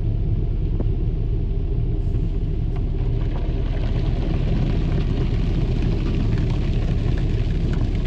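Automatic car wash running with a steady low rumble, a hiss of spray that grows stronger about two seconds in, and a few light knocks.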